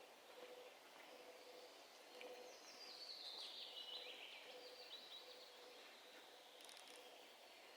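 Faint songbird song in a summer forest: a quick phrase of notes stepping down in pitch, then a few more notes a second later, over a quiet background with a soft low note repeating about once a second.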